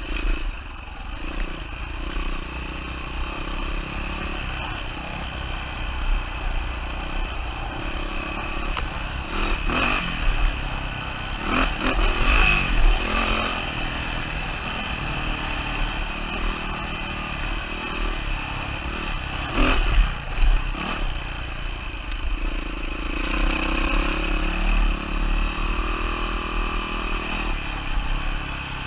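2007 Yamaha WR450 dirt bike's single-cylinder four-stroke engine running on a trail, its note rising and falling with the throttle. Clattering knocks come in two clusters, about a third of the way through and again about two-thirds through.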